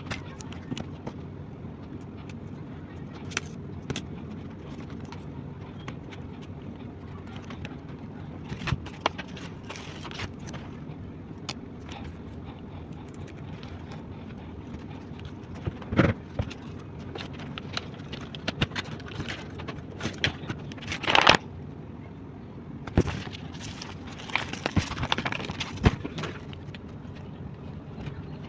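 Plastic toy pieces being handled: scattered clicks, taps and light scrapes, with a louder scraping rustle about 21 seconds in, over a steady low background hum.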